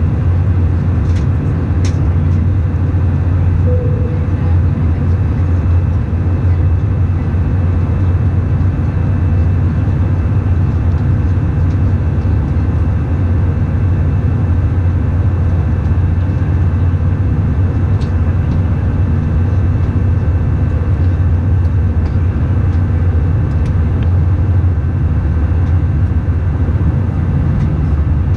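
Steady cabin noise inside an Airbus A319 airliner in flight: engine and airflow noise with a heavy, even low rumble, and a few faint ticks.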